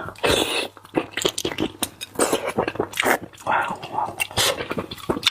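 Close-miked eating sounds: a person chewing with the mouth open, in a quick, irregular run of wet smacks and clicks.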